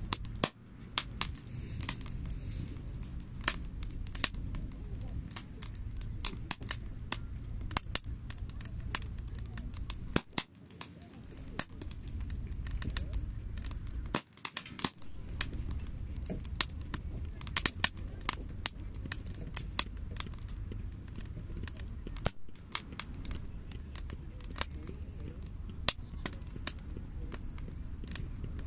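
Wood campfire burning, crackling with many sharp irregular pops and snaps over a steady low rumble.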